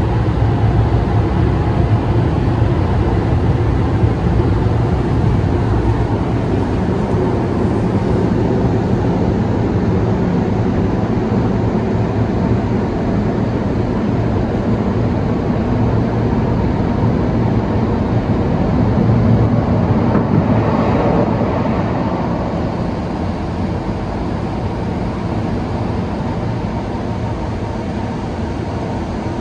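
Beauty 'Miyabi' automatic car wash machine working over the car, heard from inside the cabin: a steady rumble and rush that swells about twenty seconds in, then eases.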